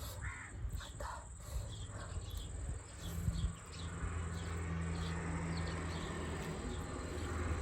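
Insects chirping in short repeated calls over a low steady hum that grows stronger a few seconds in.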